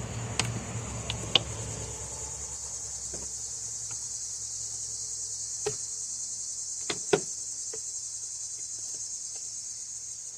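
A steady high-pitched chirring hiss, with a few sharp clicks and taps of tools and plastic parts being handled while a Homelite chainsaw is taken apart; a close pair of clicks about seven seconds in is the loudest.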